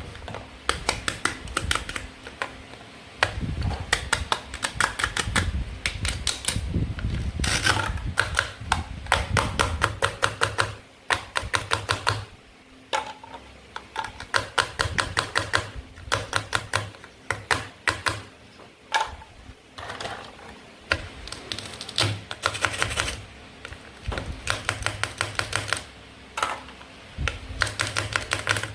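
Toy play food being cut and handled: quick runs of small hard plastic and wooden clicks and taps, broken by short pauses.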